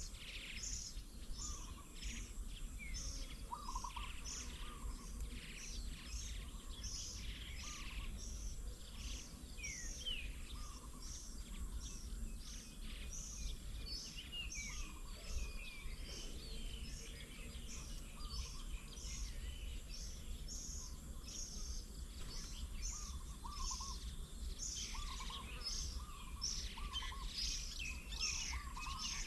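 Wild birds chirping and calling: a steady run of short high chirps, about two a second, mixed with scattered lower calls, over a steady low rumble.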